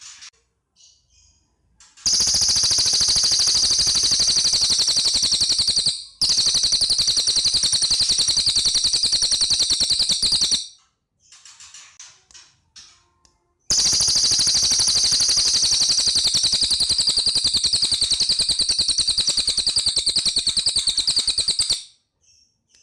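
Cililin bird singing: two long, very rapid, high-pitched rattling trills of about eight seconds each, with short chirps in the gap between them.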